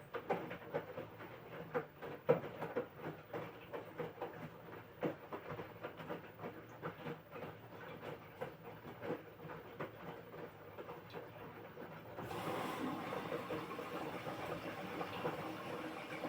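LG washing machine drum turning wet laundry, with irregular soft knocks and sloshing over a low hum. About twelve seconds in, a steady rush of water starts as the machine begins filling.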